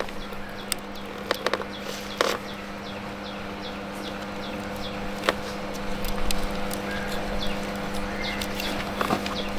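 A steady low hum with scattered sharp clicks and taps, and a short high chirp repeating about three times a second.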